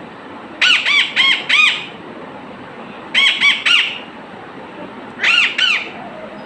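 A pet bird squawking in three bursts of harsh calls, each burst three or four short calls that rise and fall in pitch.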